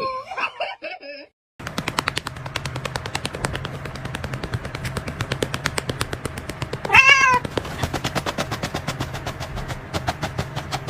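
A cat meowing a few times, then a fast, even run of sharp clicks, about seven a second, over a low hum, with a single cat meow midway through the clicking.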